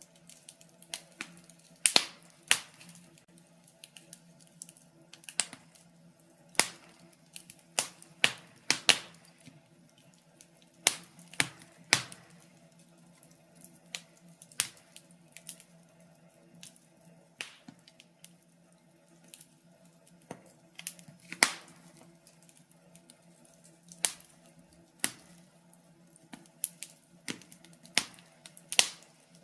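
Wood fire in a fireplace crackling, with irregular sharp pops and snaps, some of them loud, over a faint steady low hum.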